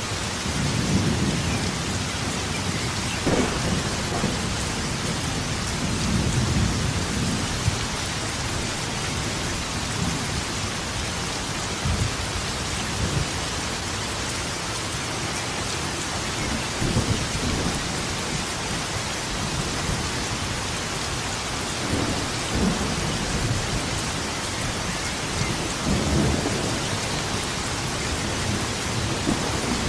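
Steady heavy rain falling, with low rolling thunder rumbling up and dying away several times.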